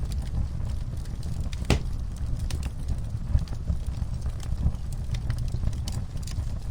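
Wood fire burning in a fireplace: a steady low rumble of flames with irregular crackles and pops, one sharper pop nearly two seconds in.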